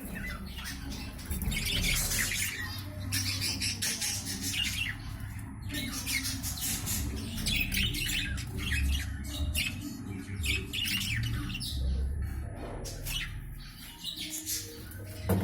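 Budgerigars chattering: a steady run of short, high chirps and squawks, one after another.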